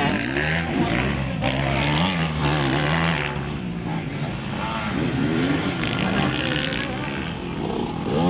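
Several racing dirt-bike engines revving together, their pitches rising and falling as the riders accelerate and shift, one engine overlapping another.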